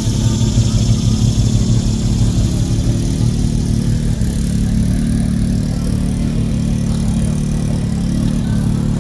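Car engine running steadily at a low idle, its pitch shifting up a little about four seconds in.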